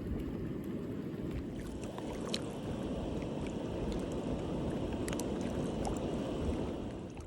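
Steady rush of water with scattered small splashes and ticks, cutting off suddenly at the end.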